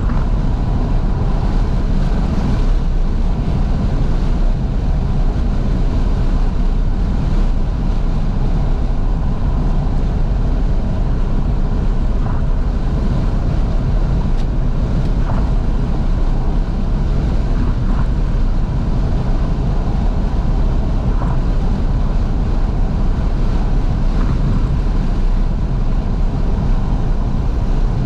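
Steady road and wind noise of a Fiat 500S on the move with all its windows wide open: engine, tyres and rushing wind mixed into one continuous low rumble.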